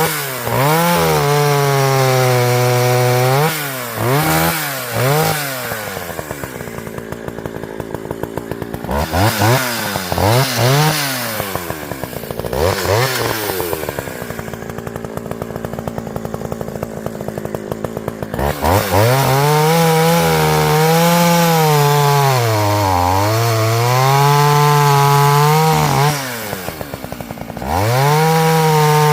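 Partner Farmer two-stroke chainsaw engine revved hard and blipped several times, falling back to idle twice. Then it is held at full throttle, its pitch repeatedly sagging and recovering as the chain works through wood, before a brief drop and a final rev.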